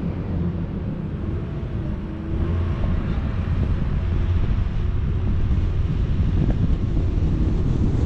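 A vehicle's engine running under the rumble of wind buffeting the camera microphone while driving. It grows a little louder about two seconds in.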